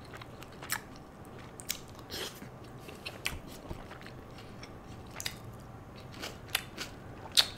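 Close-miked chewing of a soft chicken seekh kebab: scattered wet mouth clicks and smacks at a low level, with one sharper click near the end.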